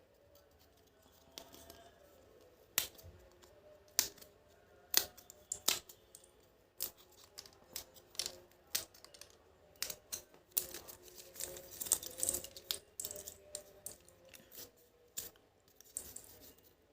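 Pieces of an excavator puzzle toy being handled and fitted together: irregular light clicks and taps, with a short burst of rustling about twelve seconds in.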